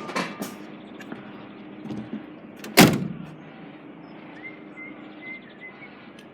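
A door slams shut once, loudly, about three seconds in, after a few short clicks and rattles. Faint chirps follow over a steady background.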